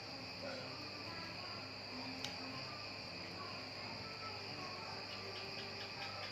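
Crickets chirring steadily in a high, unbroken drone. A single sharp click a little past two seconds in and a quick run of soft ticks near the end.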